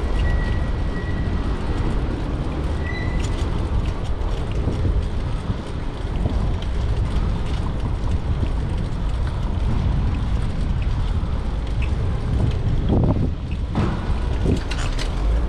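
Wind buffeting the microphone of a moving bicycle, a steady low rumble with street traffic noise underneath. Near the end come a couple of brief rising sounds.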